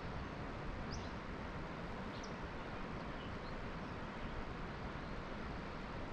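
Steady outdoor background noise with a few short, high bird chirps, about one and two seconds in and again near the end.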